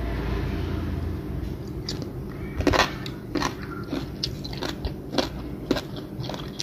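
A person eating a mouthful of boiled pork with crisp pickled Thai eggplant (cà pháo) in shrimp-paste dip, biting and chewing with a run of irregular crunches.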